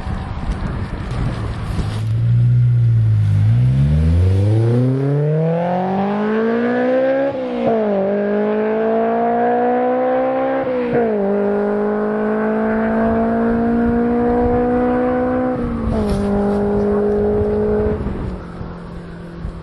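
Honda S2000's four-cylinder engine through an Invidia aftermarket exhaust, pulling hard from low revs: its note climbs steeply for a few seconds, then drops sharply at three upshifts and climbs again after each. Near the end it holds steady before fading.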